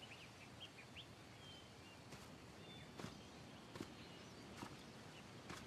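Faint outdoor ambience: small birds chirping in short high notes, with a few soft, evenly spaced taps about one a second in the second half.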